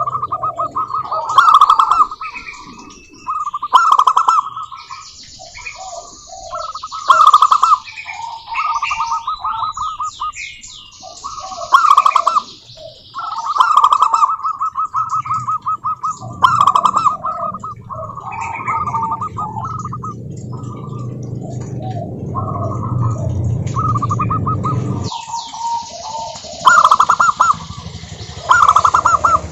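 Zebra doves singing: repeated phrases of quick, pulsed cooing notes, several birds overlapping, with higher chirps of other small birds in between. A low background rumble runs through the middle and cuts off suddenly near the end.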